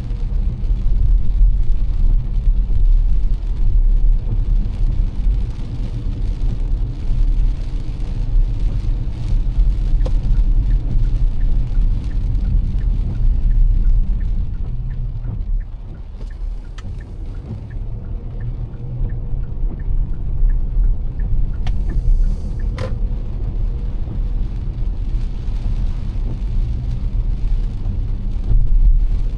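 Car driving through heavy rain, heard from inside: a steady low road rumble with a hiss of rain and tyre spray over it. The rumble eases for a few seconds in the middle while a light, even ticking sounds, and there is one sharp click a little later.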